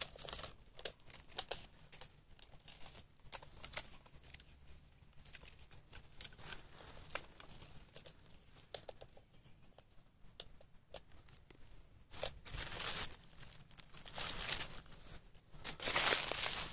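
Footsteps and brushing through dry leaf litter and undergrowth: scattered crackles and snaps of twigs and leaves, building into louder rustling bursts in the last few seconds.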